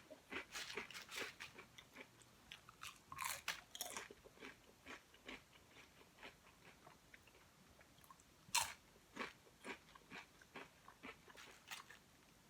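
Close-up mouth sounds of someone eating potato chips: irregular crisp crunches and chewing, with one sharper, louder crunch about eight and a half seconds in.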